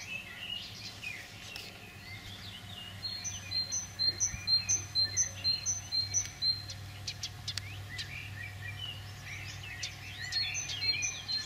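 Birds singing and chirping, one of them repeating a quick two-note phrase about eight times over a few seconds and taking it up again near the end, over a low steady hum.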